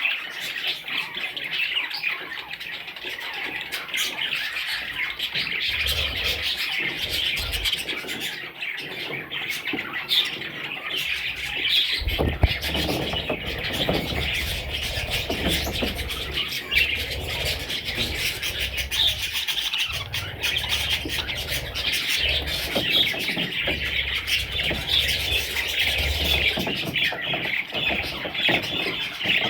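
A group of young budgerigars chirping and chattering continuously, with a low rumble underneath from about halfway through.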